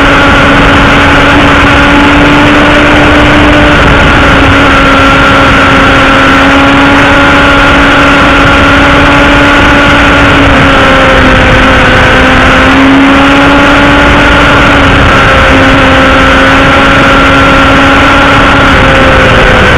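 2007 Yamaha R1 inline-four with a Scorpion aftermarket exhaust running very loud at a steady, high engine pitch, wavering only slightly, inside a tunnel.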